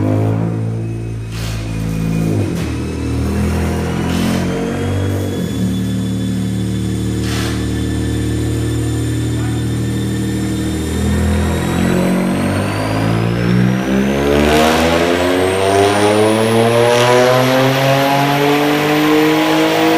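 BMW N54 twin-turbo 3.0 L inline-six in an E60 535i, tuned to 22 psi on 60% ethanol, running on a chassis dyno. Its pitch changes in steps over the first few seconds, then holds steady at part throttle. From about twelve seconds in it pulls at full throttle, the revs climbing steadily with a high whine rising along with them.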